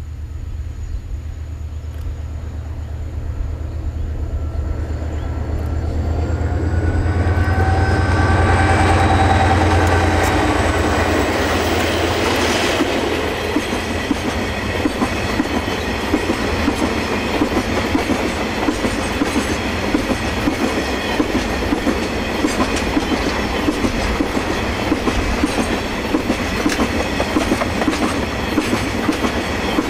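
Milk train hauled by DFB and DXB diesel-electric locomotives approaching and passing. The locomotives' engine drone builds to its loudest about nine seconds in. From about twelve seconds the long rake of milk tank wagons rolls by with a steady clickety-clack of wheels over the rail joints.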